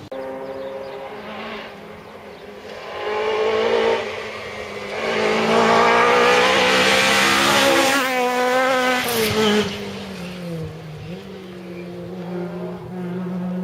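Historic rally car's engine at full throttle on a tarmac stage: it comes up through the gears, passes at its loudest, then its engine note drops in pitch as it pulls away.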